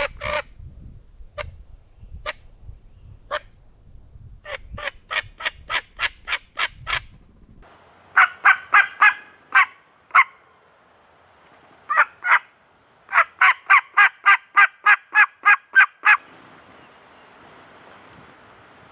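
Turkey yelps in evenly spaced runs: a few soft single notes, then a run of about nine softer yelps. Louder yelps follow from about eight seconds in, ending in a run of about a dozen near the end.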